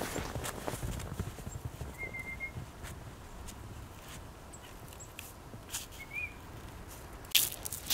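Crunching steps through deep snow: a run of crunches at first, a few scattered ones, then a louder burst of crunching near the end.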